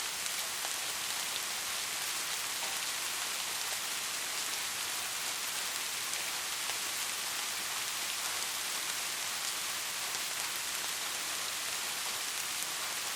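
Steady rainfall: an even, high hiss of many drops, with faint single drop ticks sprinkled through it.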